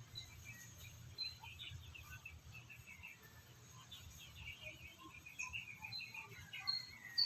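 Many short, high chirps, most likely small birds chirping, coming thicker in the second half, over a faint low hum.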